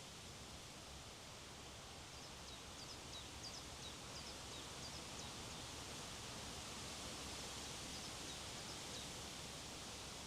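Steady wind rushing through the hilltop trees and vegetation. A small songbird chirps faintly in a quick run of high notes from about two to five seconds in, and again briefly near the nine-second mark.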